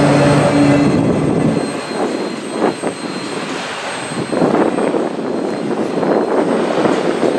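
Freight train of autorack cars rolling past: loud wheel-on-rail rumble with a steady tone that stops about a second in. After that the deep rumble drops away, leaving a wavering hiss as the train moves off.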